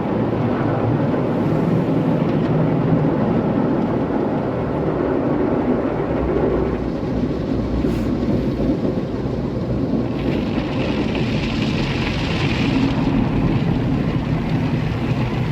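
Rotating brushes of a tunnel car wash scrubbing the car, heard from inside the cabin as a steady, dense wash of noise. A higher hiss joins for a few seconds about ten seconds in.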